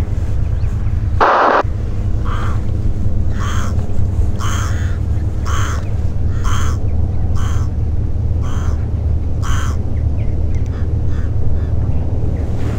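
A bird calling about eight times, roughly once a second, over a steady low rumble, with a louder noisy burst about a second in.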